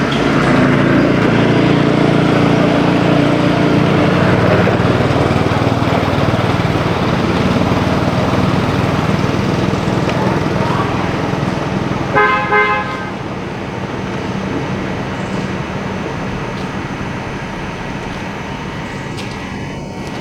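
Motor vehicle traffic: an engine hum, loudest in the first few seconds as a vehicle passes close by, then steady road noise. A vehicle horn toots briefly about twelve seconds in.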